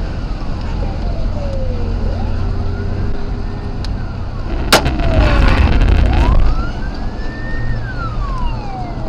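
Police car siren wailing in slow rising and falling sweeps over the low rumble of the pursuing car. About four and a half seconds in comes a single sharp crack of a gunshot, a warning shot, followed by a loud rush of noise for over a second.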